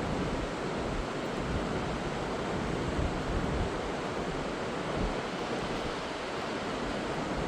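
Heavy rain falling in a steady, even rush, with wind buffeting the microphone.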